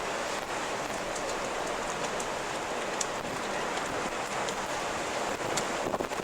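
Steady storm wind, an even rushing noise, with a few faint sharp ticks.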